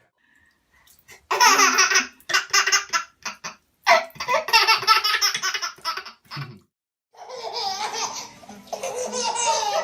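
High-pitched, hearty laughter in three long bouts, after a quiet first second.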